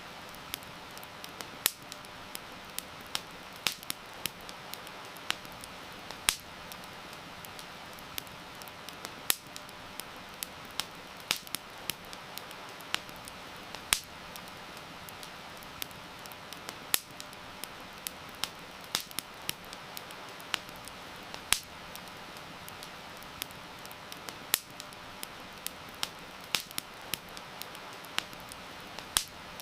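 Wood fire crackling, with frequent irregular sharp pops and snaps, over the steady hiss of heavy rain.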